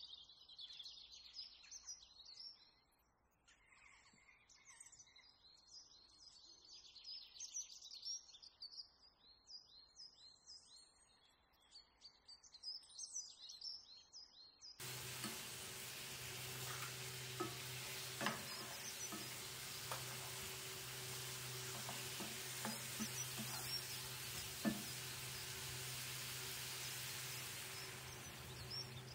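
Chicken pieces sizzling in a frying pan while being stirred with a wooden spatula. About halfway through the sound cuts abruptly to a steadier, louder hiss with a low hum underneath and occasional knocks of the spatula.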